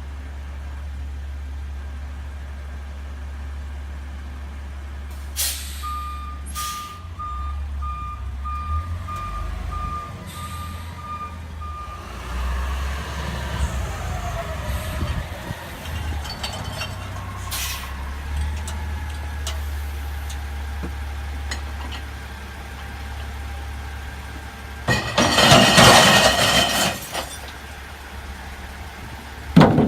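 A CNG-powered garbage truck running with a steady low engine hum, its backup alarm beeping evenly for about six seconds as it reverses. About 25 seconds in comes a loud burst of noise lasting about two seconds, and a sharp bang near the end.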